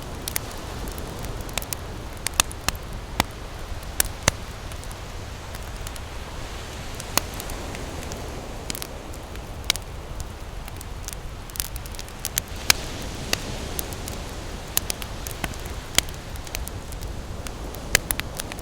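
Campfire crackling, with sharp irregular pops and snaps of burning wood over a steady low wash of ocean surf.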